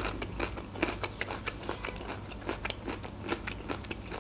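Close-miked chewing of a mouthful of food with the mouth closed: a quick, irregular run of small wet clicks and smacks.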